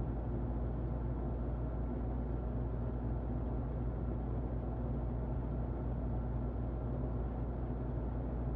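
Electric fan running steadily behind a muffling cover, a low whooshing rumble with a faint motor hum and no high hiss.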